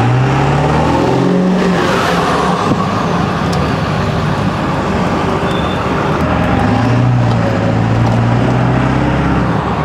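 Ford 7.3 L Powerstroke turbo-diesel V8 accelerating, heard from inside the cab with the windows down. Its pitch rises for about two seconds, then drops back as it shifts, and it pulls on steadily under wind and road noise.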